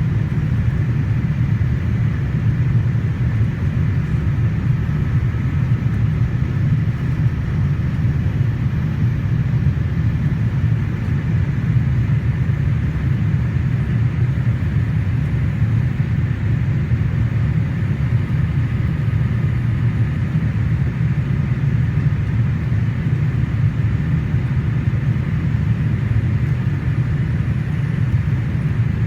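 Steady, low cabin rumble of a Boeing 787-8 under power, engine and airflow noise heard from a rear window seat inside the cabin, holding level with no change in pitch or loudness.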